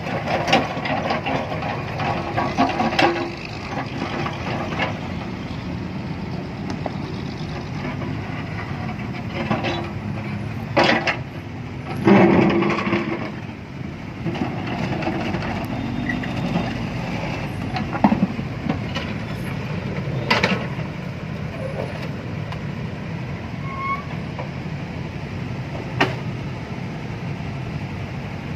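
An engine running steadily, with scattered clanks and knocks over it and a louder burst of knocking about twelve seconds in.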